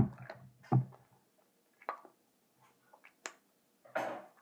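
Someone chewing Bottle Caps candy: a few scattered crunches and mouth clicks, the loudest right at the start, and a breathy sound near the end.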